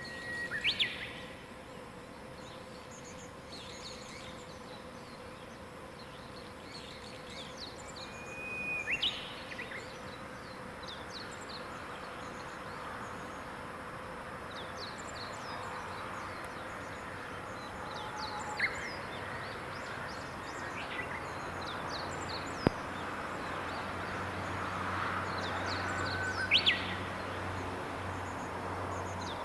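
Morning birdsong in mountain woodland: a nearby songbird sings about four phrases, each a held whistled note ending in a quick upward flourish, over many faint distant chirps. A faint steady hum runs underneath, with one sharp click about two-thirds of the way through.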